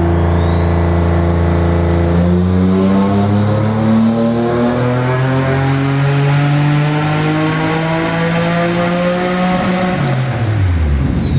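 Big-turbo Subaru EG33 flat-six making a full-throttle dyno pull. It holds steady for about two seconds, then revs climb smoothly for about eight seconds with a high whine rising along with them, then fall away as the throttle is lifted near the end.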